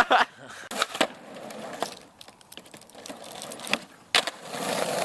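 Skateboard sounds: several sharp clacks and knocks of the board, then the wheels rolling, the rolling noise growing louder near the end.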